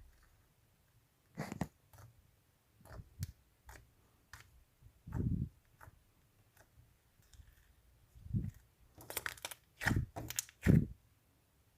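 Homemade slime being squeezed and poked by hand, making irregular wet pops, squelches and clicks, with a quick run of pops near the end.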